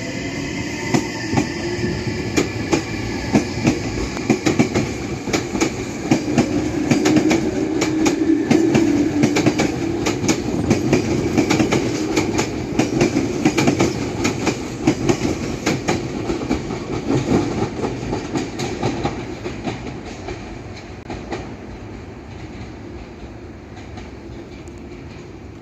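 Meitetsu electric train pulling away: its motor whine rises in pitch at first, then the wheels click rapidly over rail joints, loudest midway, and the sound fades away near the end.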